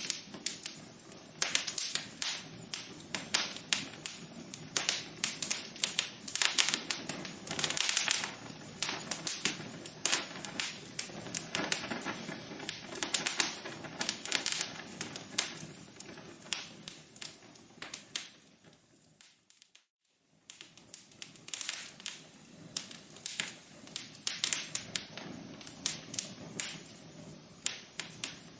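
Wood fire crackling in a fireplace: many sharp, irregular pops and snaps over a low steady rustle of the burning. About two-thirds of the way through, the sound fades away to near silence for under a second, then the crackling returns.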